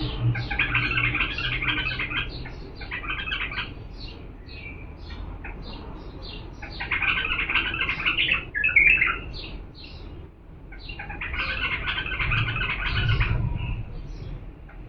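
Bulbul singing: three long runs of rapid chirping, warbling notes, with short single chirps in the pauses between them.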